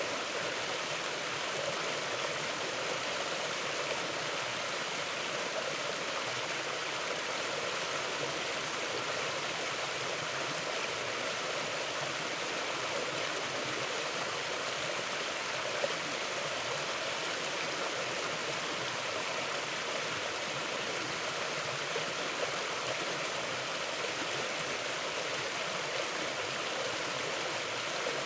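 Mountain river flowing over rocks: a steady, even rush of water without a break.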